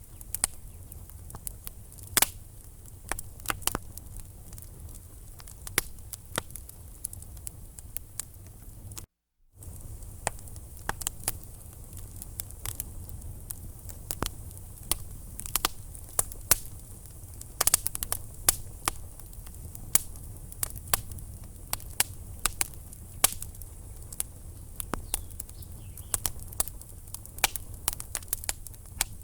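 Wood fire in a fireplace: logs crackling and popping in irregular sharp snaps over a low, steady rumble of flame. The sound drops out completely for about half a second around nine seconds in.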